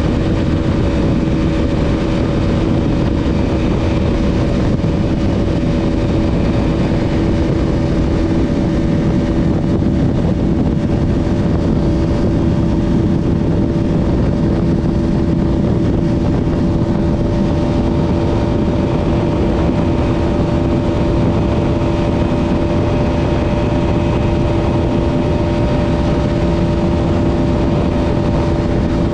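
Bajaj Pulsar RS200's single-cylinder engine running at a steady, unchanging pitch under heavy wind rush, the motorcycle held at speed.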